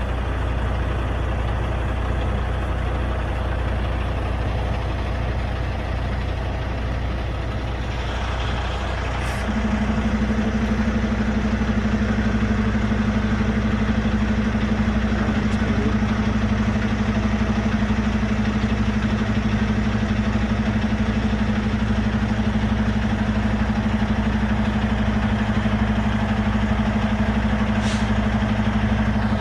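Semi truck's diesel engine running steadily, heard from inside the cab. About a third of the way in, a stronger steady hum joins and the sound grows slightly louder.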